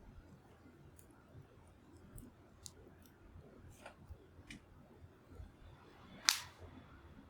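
Wood fire crackling faintly, with scattered small ticks and pops and one louder sharp snap about six seconds in.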